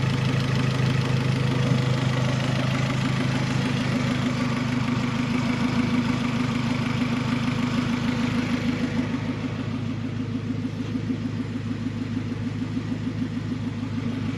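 Turbocharged Honda H-series VTEC four-cylinder in a Civic idling steadily, warm with the thermostat open, while air is being bled from its cooling system. The idle gets a little quieter at about nine seconds.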